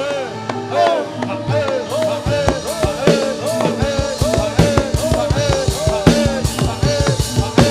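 Live jathilan accompaniment music: a short melodic figure repeats over and over above drumming. Quick bass drum beats come in about halfway through.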